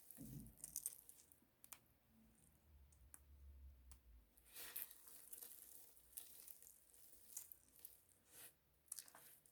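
Bar soap crackling and crumbling as it is worked, a faint run of crisp crackles and small clicks.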